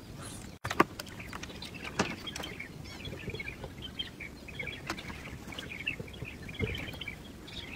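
Small birds chirping over a steady outdoor background, with a few sharp clicks and knocks scattered through.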